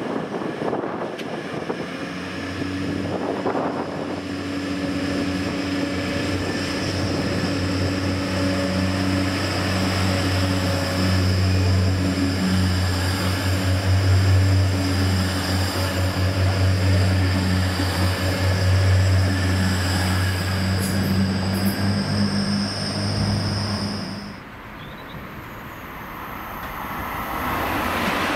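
Train on the East Coast Main Line with a diesel engine running: a steady low hum with a high whine above it. About 24 seconds in it cuts off abruptly, and the rush of another train builds up near the end.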